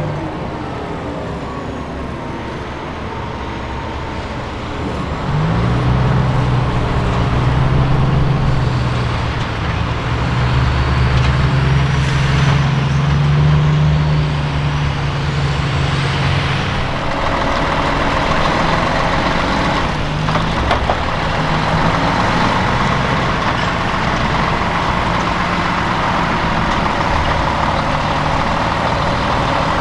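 Heavy military truck's diesel engine running, its pitch rising about five seconds in and then holding steady. A steady hiss joins from about seventeen seconds in.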